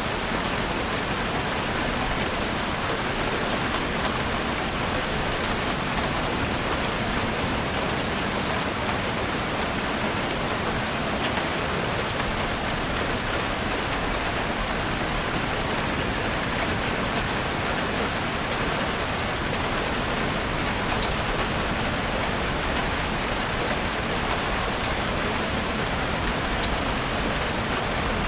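Heavy rain falling steadily on a roof: a dense, even hiss of drops with many small sharp taps through it.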